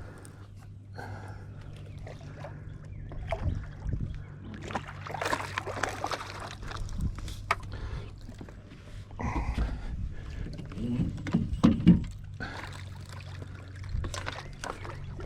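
Boat motor running with a steady low hum, overlaid by irregular bouts of sloshing water and knocking handling noise in the boat.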